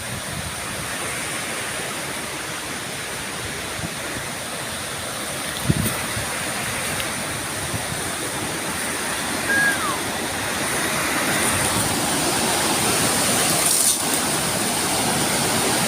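River water rushing steadily, growing gradually louder. One short knock about six seconds in.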